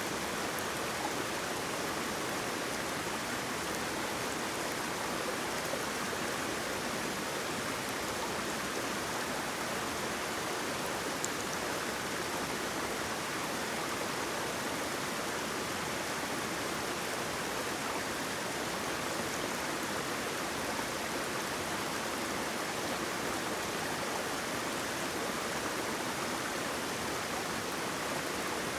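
Waterfall: falling water making a steady, even hiss with no breaks or changes in level.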